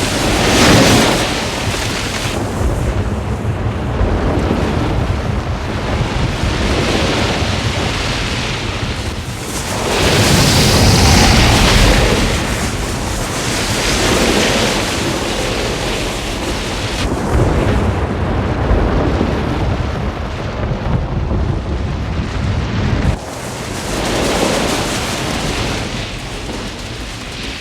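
Avalanche sound effect: a continuous rumble of sliding snow with a rushing hiss, swelling and easing several times and loudest about ten seconds in.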